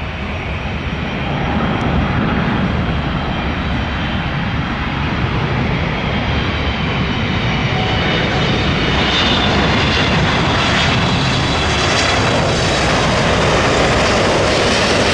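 Jet engines of a Boeing 777-200ER on landing approach: a steady rumble that grows louder over the first couple of seconds, with a high whine coming in about halfway.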